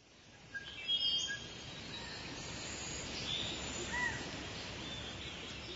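Quiet outdoor background noise with a few short bird chirps: several around a second in and one arched call near four seconds.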